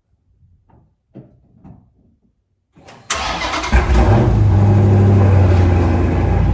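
Dodge Challenger Scat Pack's 6.4-litre 392 HEMI V8 cold-starting: after a few faint clicks, it cranks and fires about three seconds in, revs up sharply, then settles into a steady, loud idle.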